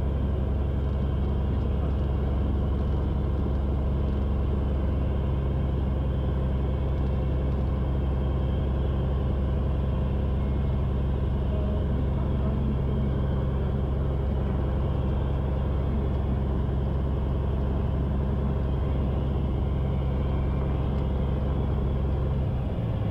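Cessna 182 piston engine running steadily at low power while the plane taxis on the ramp, a heavy low drone. The note shifts slightly just before the end.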